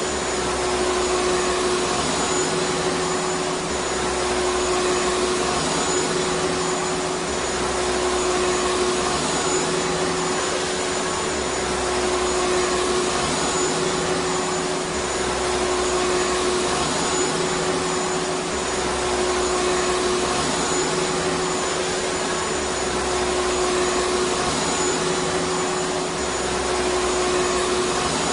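Vacuum cleaner running steadily: an even rushing hiss with a steady hum and a faint high whine, swelling slightly every few seconds.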